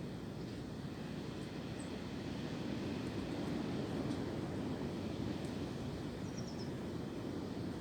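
Wind blowing through tree branches, a steady rushing that swells a few seconds in and eases off again. A bird chirps faintly a few times near the end.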